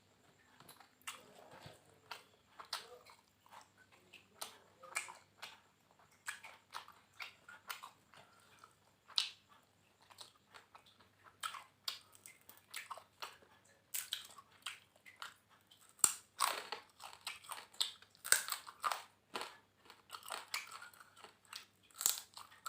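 Close-up chewing and crunching while eating fried catfish with raw vegetables: irregular crisp bites and chews, louder and more frequent from about two-thirds of the way in.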